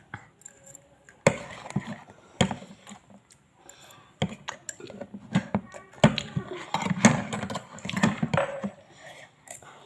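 Eating noises from people eating spicy chicken noodles: chewing and mouth sounds, with irregular sharp clicks and knocks, busier in the second half, and faint low voices.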